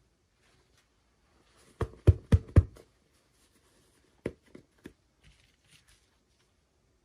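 Hands handling small plastic toy pieces and packaging: faint rustling, a quick run of four sharp clicks about two seconds in, then another click and a few lighter taps.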